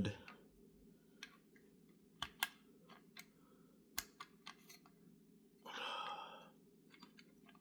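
Light, scattered clicks and taps of small wire leads and metal parts being handled while the coil's red and yellow wires are fitted on an HEI distributor, with a brief scraping rasp about six seconds in.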